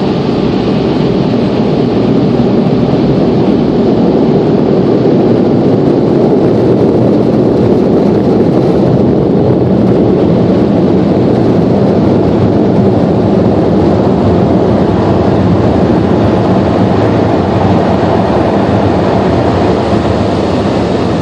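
Car wash air-dryer blowers running: a loud, steady rush of air heard from inside the car.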